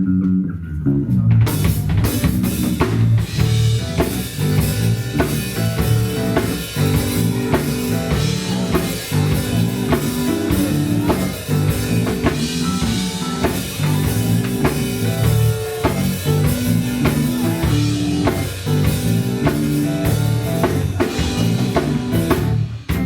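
Live gospel band playing an instrumental groove: drum kit keeping a steady beat under bass and electric guitar lines.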